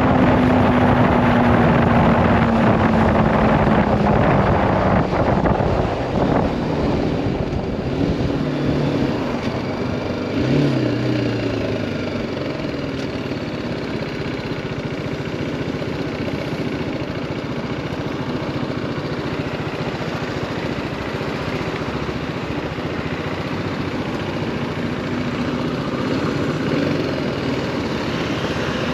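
BMW G310R's single-cylinder engine on the move, with wind rush: the engine note falls over the first five seconds as the bike slows, then it runs quieter with a few short revs, and the note rises again near the end.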